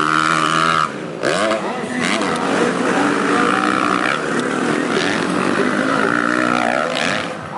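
Motocross and grasstrack racing motorcycles running hard on the circuit, their engines revving up and down as they pass.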